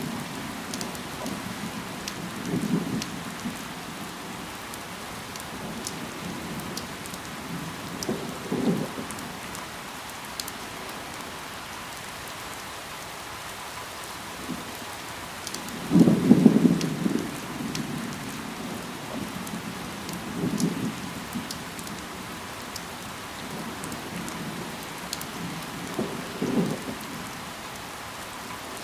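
Steady rain falling on foliage, with individual drops ticking sharply. Five short low rumbles come through it, the loudest about halfway.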